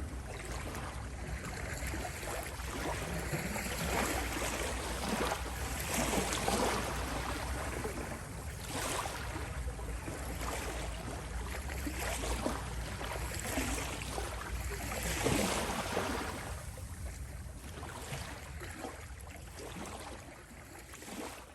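Ocean waves washing in and out, each surge swelling and ebbing every couple of seconds over a steady low rumble, fading down near the end.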